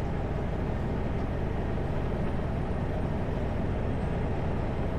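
Steady low drone of a Kenworth W900L semi truck cruising on the highway, heard from inside the cab: diesel engine and road noise, constant throughout.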